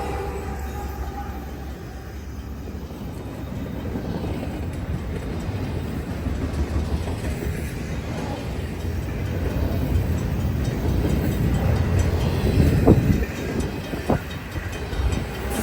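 CN intermodal freight train rolling through a level crossing: a steady low rumble of wheels and diesel locomotives that grows louder, with a couple of sharp clunks near the end.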